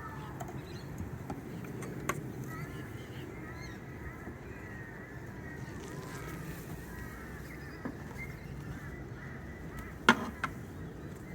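Honeybees humming steadily around the opened hive, with a couple of sharp knocks from handling the hive parts, the loudest about ten seconds in.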